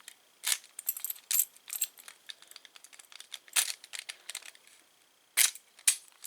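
Light metallic clicks and clinks of a key and a new Schlage keyed doorknob being handled and its lock worked, with sharper clicks about half a second in, midway and near the end.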